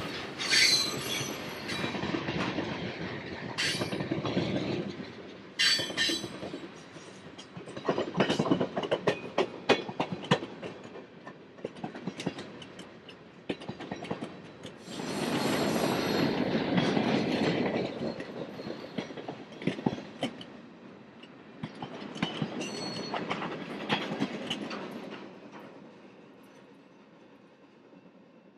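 A freight train's cars rolling past, wheels clicking over rail joints in swelling surges of noise, with brief high screeches of wheels on the rails. The sound fades away near the end as the cars move off.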